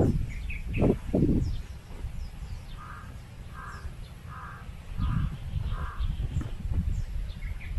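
A bird gives five short calls in an even series, about two-thirds of a second apart, with faint chirps of smaller birds. Low rumbling noise underlies it, loudest near the start and again from about five seconds in.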